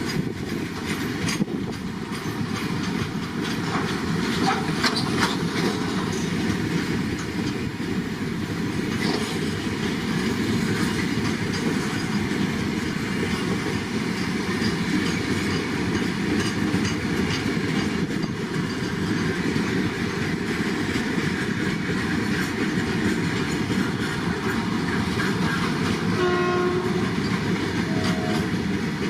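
A goods freight train running past on Indian Railways track, its wagons rumbling steadily with a rhythmic clickety-clack over the rail joints. Two short horn toots sound near the end.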